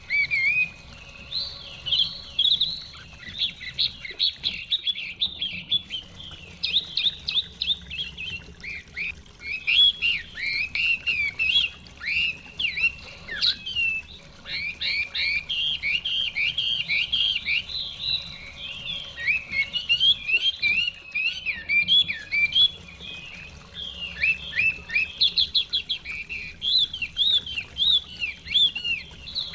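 Chinese hwamei (họa mi) singing a rapid, nearly continuous run of varied whistled phrases, with short pauses about five seconds in and again about two-thirds of the way through, over a faint low rush of stream water.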